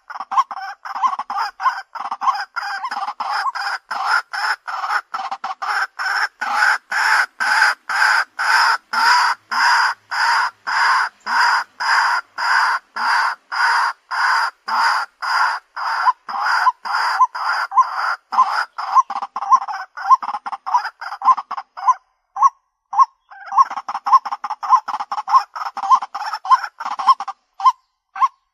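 White-breasted waterhen calling: a long, fast run of repeated short call notes, about two to three a second. The run thins briefly about three-quarters of the way through, then picks up again.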